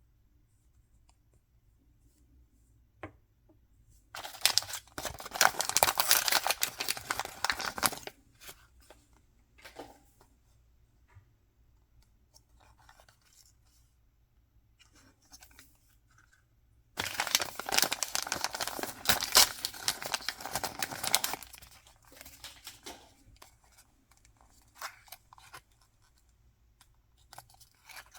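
Toy packaging being torn and crinkled open by hand: two long spells of ripping and rustling, each about four seconds, with small crinkles and clicks between them.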